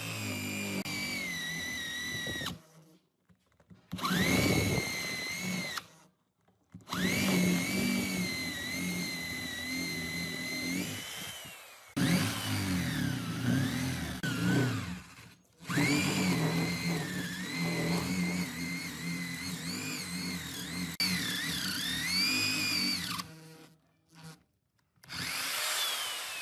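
An electric power tool's motor whines in several runs of a few seconds each, separated by abrupt breaks. Its pitch sags and climbs again as the tool meets and leaves the work.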